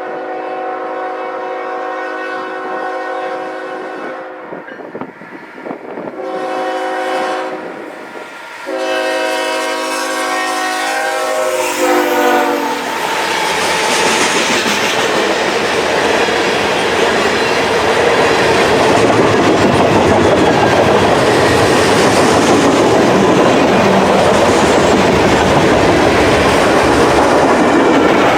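CN locomotive air horn blowing a long blast, a short one and a long one, its chord dropping in pitch as the locomotive passes, followed by the loud rumble and clatter of the train rolling by.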